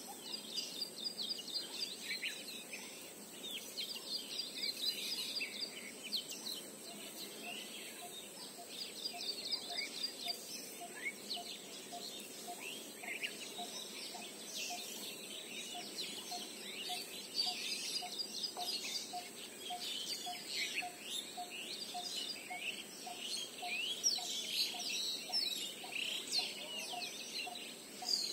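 Birds chirping and twittering in quick high calls throughout, while from about six seconds in one bird repeats a single short low note about twice a second.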